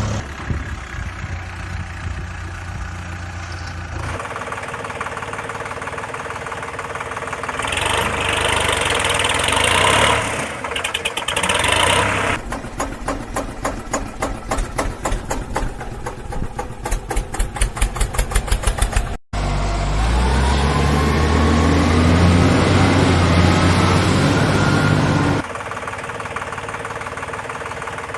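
Engine sounds of heavy vehicles in several abruptly cut segments: a steady running rumble, then a knocking chug that speeds up over several seconds, a brief dropout, and a louder run with a rising whine before cutting back to a steady idle.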